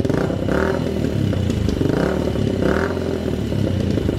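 Yamaha TTR-90 pit bike's small four-stroke single running cold just after being kick-started. Its note swells briefly three times.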